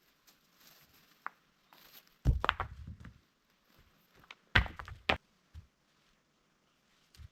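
Two heavy thuds about two seconds apart, each followed by a short clatter of knocks, as heavy objects are set down on the ground, with lighter taps between them and one more dull thud near the end.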